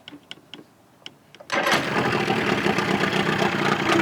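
A few light clicks, then about a second and a half in a 2000 Johnson 25 hp two-stroke outboard motor starts and runs steadily.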